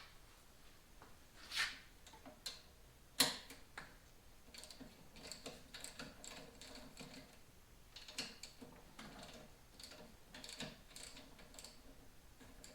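Two sharp knocks, then uneven runs of quick, light mechanical clicking, as of small motorcycle parts being handled or turned by hand.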